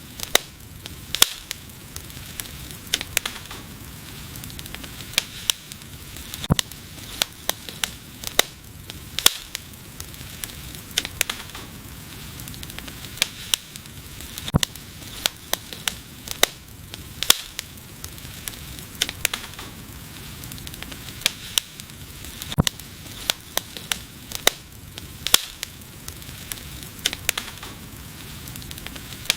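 Wood fire crackling: frequent, irregular sharp pops and snaps, some louder than others, over a steady soft hiss of the burning wood.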